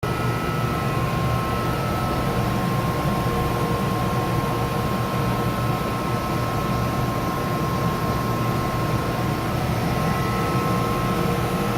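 Vacuum pump running steadily, a constant low hum with a thin, even whine on top. This is the abnormal noise the pump is making.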